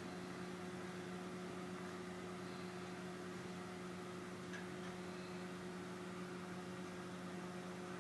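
Steady low hum with background hiss, unchanging throughout.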